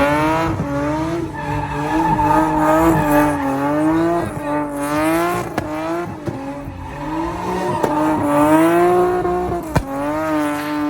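A truck's tires squealing continuously as it spins in circles, a loud screech whose pitch wavers up and down, with the engine running under it. A short sharp click comes near the end.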